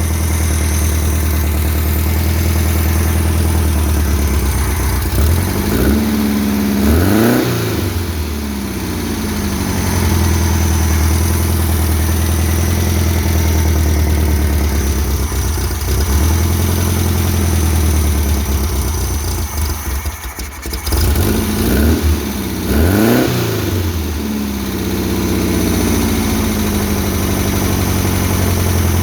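A 1600 cc dune buggy engine, an air-cooled VW-type flat-four, idling steadily and blipped twice, about six seconds in and again about twenty-two seconds in, each rev climbing and dropping back to idle.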